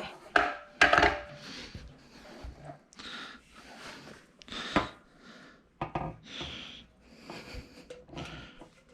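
Parts of a plotter stand being handled and fitted together by hand: a few sharp knocks and clunks among rubbing and scraping.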